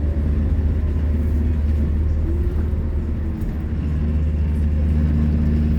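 Scania K230UB Omnilink bus's five-cylinder diesel engine running hard with a deep rumble, its engine note shifting pitch a couple of times as it drives.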